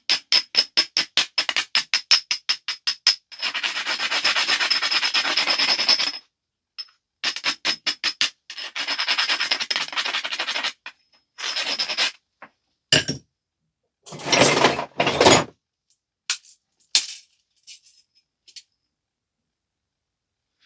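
Stone scraped rapidly back and forth along the edge of a flint biface, in quick strokes of about three or four a second and longer stretches of steady rubbing: the edge being abraded to prepare it for flaking. A few short sharp clicks of stone on stone come in the last third.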